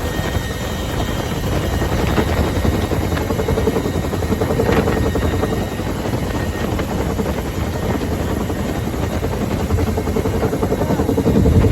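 UH-1H Huey helicopter running steadily, its turboshaft engine and two-bladed main rotor making a dense, pulsing noise, a little louder near the end.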